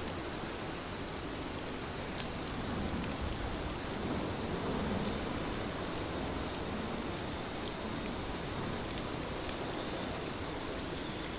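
Heavy rain falling steadily: a dense, even hiss with scattered sharp drop hits.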